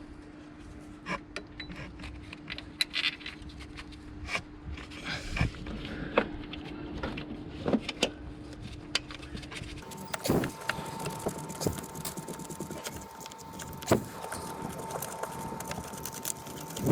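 Irregular metallic clicks, clinks and knocks of hand tools and fasteners as the starter motor is being refitted. Under them runs a steady faint tone that jumps to a higher one about ten seconds in.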